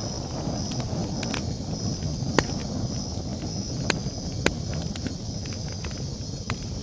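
Campfire crackling: sharp pops and snaps, a few louder ones in the middle, over a low steady rumble of the burning wood. A high pulsing trill of night insects runs evenly behind it.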